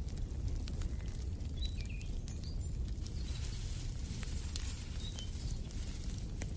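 Wood fire crackling in a fireplace: a steady low rumble with scattered sharp pops. Small birds chirp a few short notes over it, about one and a half, two and a half, three and five seconds in.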